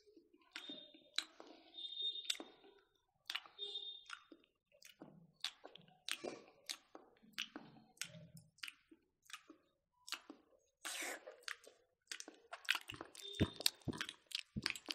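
Several people chewing and biting smoked pork and rice eaten by hand, with irregular wet mouth clicks and smacks.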